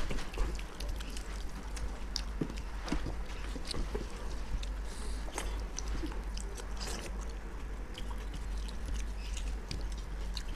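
People eating a meal: chewing and biting, with scattered small clicks from food and plates, over a steady low hum.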